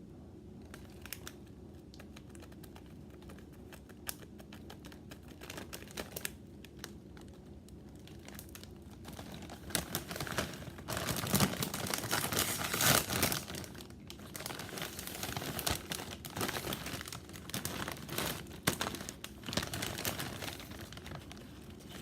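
Potato chip bag crinkling as it is handled, with a few scattered crackles at first and then a long stretch of dense crinkling from about nine seconds in, loudest a few seconds later.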